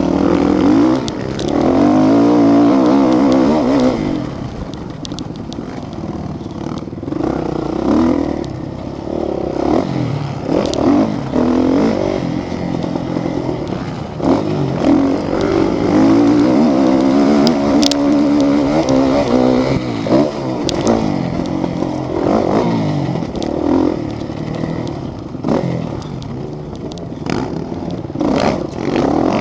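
Motocross motorcycle engines revving hard and easing off again and again as the bikes accelerate and shift, with scattered sharp clicks and clatter.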